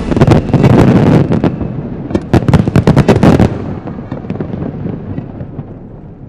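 Closing barrage of an aerial fireworks display: a dense run of bangs and crackles, then a last flurry of sharp cracks about two to three seconds in. After that the rumble dies away, with a few faint pops.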